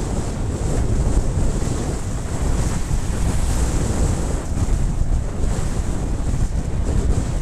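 Wind buffeting a helmet-mounted camera's microphone while riding: a steady low rumbling rush with no letup.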